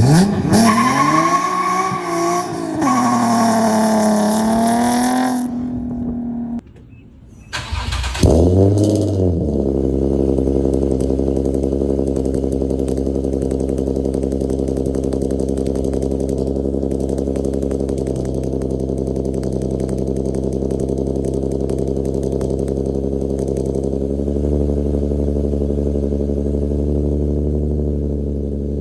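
Car engine with a custom titanium single-exit exhaust, ART cats and titanium Y-pipe, revved up and down for about six seconds. After a short pause it fires up again about eight seconds in and settles into a steady idle.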